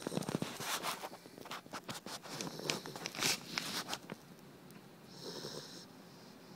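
About four seconds of scratchy rustling and clicking, then a Labrador puppy snores once, briefly, about five seconds in.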